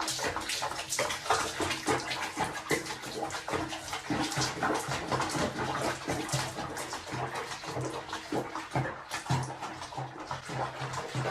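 Water splashing and sloshing, as in a bathtub, in a dense irregular run of small splashes.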